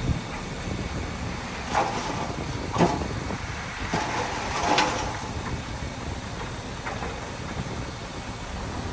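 Heavy earthmoving machinery running steadily with a low engine rumble, broken by a few sharp knocks.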